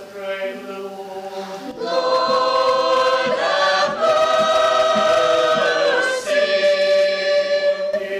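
Church choir singing a liturgical response in long held chords, softer at first and swelling louder about two seconds in.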